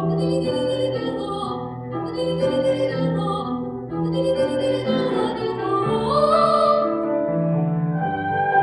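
A young girl's classical soprano voice singing with piano accompaniment, the sung line gliding upward a little past the middle.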